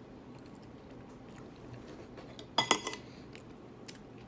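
Cutlery clinking against a dish: a few faint taps, then a quick cluster of sharp, ringing clinks about two and a half seconds in.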